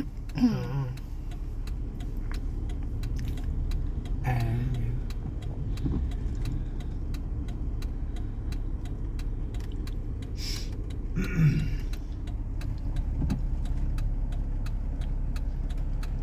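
Car driving in the rain, heard from inside the cabin: a steady low road rumble with a regular faint ticking, about two ticks a second. A few short murmurs from the passengers come through it.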